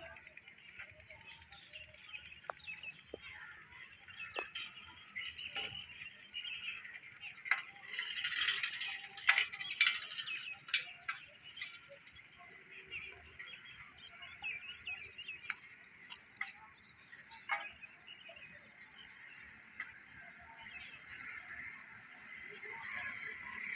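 Birds chirping, with many short calls over a faint steady outdoor hiss, busiest about eight to eleven seconds in.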